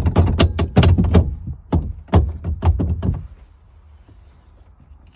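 A quick run of knocks and thuds, several a second, stopping about three seconds in.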